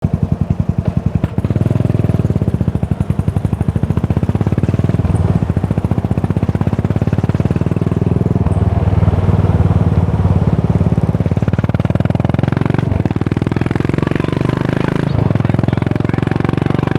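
Exhaust of a 2018 Yamaha SR400's air-cooled single-cylinder four-stroke engine through a Goods tapered-cone slip-on muffler, running with a steady, even exhaust beat. It gets louder about a second in and breaks briefly around 13 and 15 seconds in.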